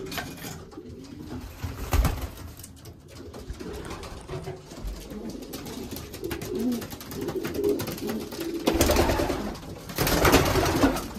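Racing pigeons cooing in a small loft, with a sharp knock about two seconds in. Near the end come two louder bursts of rustling, like wings fluttering as the birds move.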